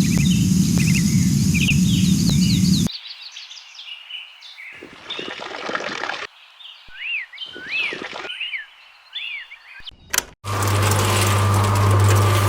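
Birds chirping over and over in short rising-and-falling calls, with a loud rushing noise for the first few seconds and two shorter ones in the middle. Near the end a small electric motor starts and hums steadily.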